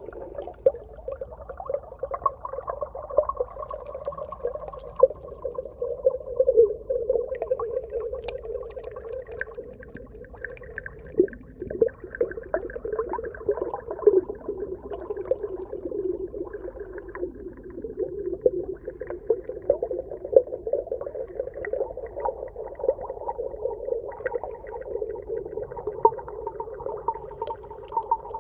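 Underwater ambience: a continuous muffled, watery hum sitting in the middle range, dotted throughout with many small clicks and pops.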